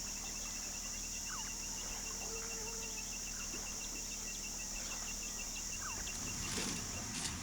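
Insects calling: a steady high-pitched buzz, with a rapid regular ticking and a few short chirps over it, and a couple of clicks near the end.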